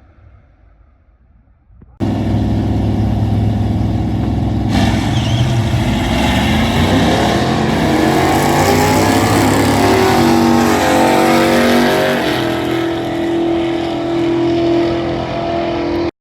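Drag racing car's engine at full throttle, coming in abruptly about two seconds in. Its pitch climbs steadily as the car accelerates, then holds steady near the end.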